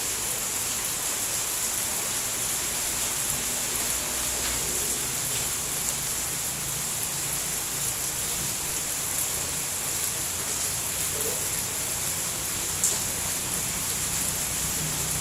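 Steady rain falling, an even hiss with one sharper drop tick near the end.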